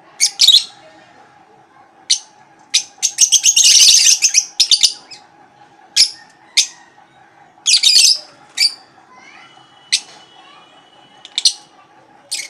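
A flock of caged lovebirds giving shrill chirps and squawks at irregular intervals, with a dense burst of overlapping calls about three to four and a half seconds in. A faint steady hum runs underneath.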